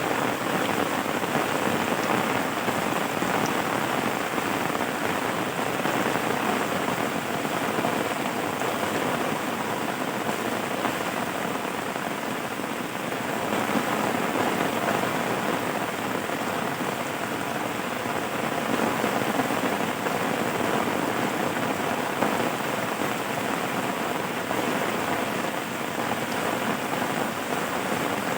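Steady rain falling, a dense even patter with no breaks or changes.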